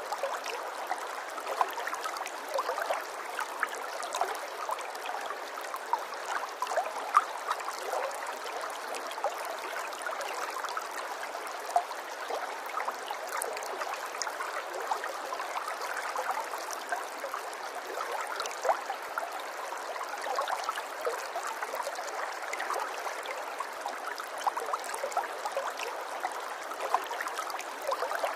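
Running water of a small stream, trickling and gurgling steadily with a constant patter of small splashes and no deep rumble.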